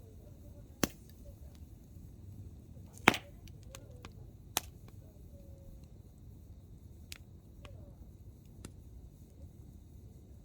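Hardwood campfire crackling: a few sharp pops of firewood snapping in the flames, the loudest about three seconds in, with lighter ticks over a low, steady rumble of burning.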